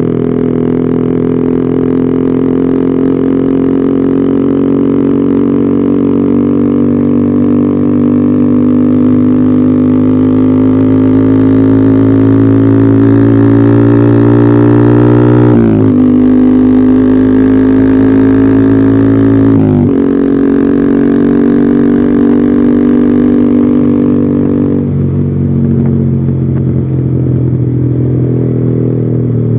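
Yamaha R15 V3's 155 cc single-cylinder engine running through an aftermarket Arrow racing exhaust, held at raised revs that climb slowly. Revs dip sharply and recover twice about halfway through, then drop back to a lower, steady idle about five seconds before the end.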